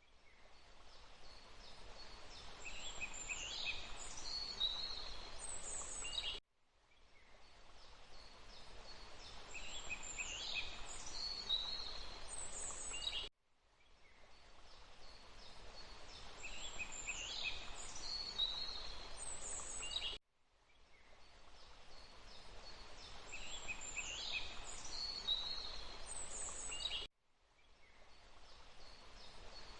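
Looped forest ambience: a steady hiss of background noise with a few high bird calls. The same short recording repeats about every seven seconds, each time cutting out abruptly to silence and fading back in.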